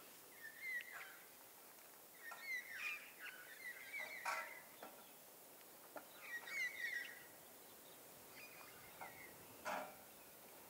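Faint bird calls: short chirping, warbling calls repeated every second or two, with a couple of faint knocks, one just after four seconds in and one near the end.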